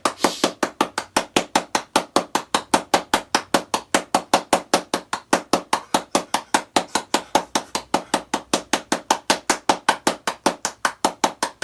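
Rapid, evenly spaced sharp knocks, about five a second, going on without a break.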